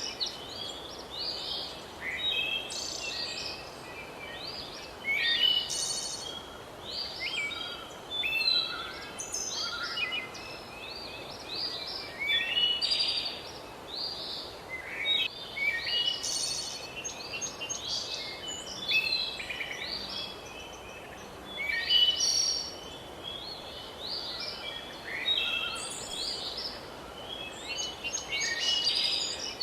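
Several birds chirping and singing at once, short overlapping calls and trills that keep coming in clusters every second or two, over a steady background hiss.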